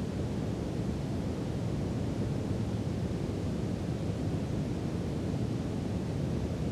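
Steady brown noise, a deep even rushing hiss weighted to the low end with no changes.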